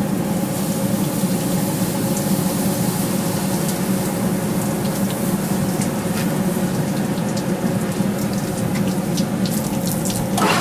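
A forge running steadily: an even rushing noise under a low hum, with a few faint clicks.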